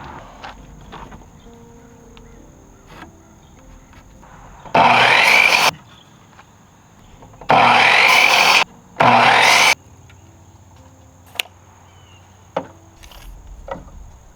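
A power tool working wood in three short bursts of about a second each, its motor pitch rising as it spins up, with a few light knocks of wood between them.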